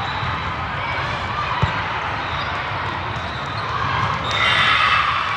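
Crowd noise in a sports hall during a youth volleyball match, with one sharp ball contact about one and a half seconds in. Near the end the crowd rises into cheering and shouting.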